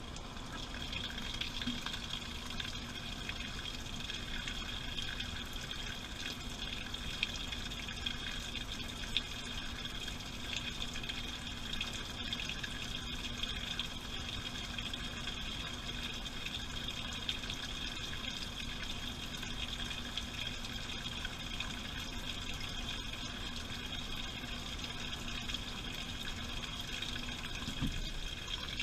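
Washing machine filling with water: a steady rush of incoming water with a low hum underneath, the hum stopping near the end.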